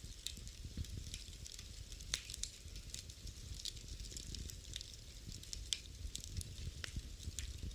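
Wood fire in a fireplace crackling, with irregular sharp pops over a low rumble of the flames; the loudest pops come about two seconds in and near six seconds.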